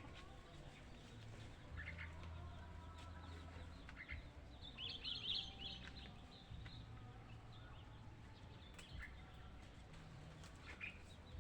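Faint bird calls: a few short chirps, with a quick cluster of higher chirps about five seconds in, over an intermittent low hum.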